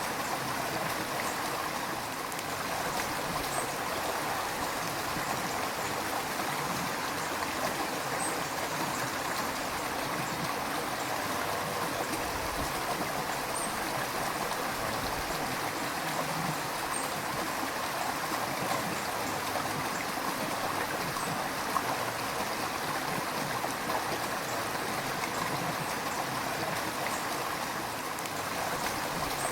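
River water flowing and gurgling over rocks: a steady, even rushing with faint splashes.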